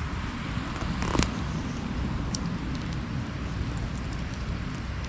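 Campfire of damp wood crackling, with scattered sharp pops and one louder snap about a second in, over a steady rushing noise and low rumble.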